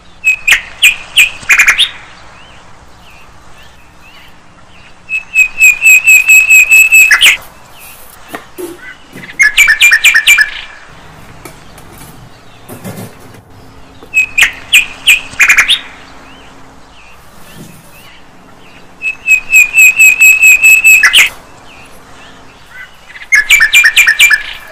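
Birdsong: loud runs of rapid, evenly repeated chirps, each run lasting one to two seconds and coming every four to five seconds. The same sequence of runs comes round again about every fourteen seconds, as a looped recording would.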